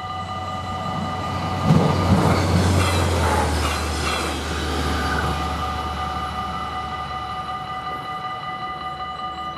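A regional passenger train passes over a level crossing, its wheels knocking over the rail joints. It is loudest about two seconds in and dies away by about six seconds, over the steady ringing of the crossing's warning bells.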